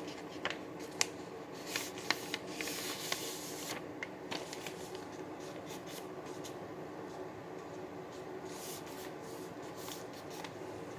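A sheet of paper being folded and creased by hand. Sharp crinkles and taps come in the first few seconds, then softer rustling, over a faint steady hum.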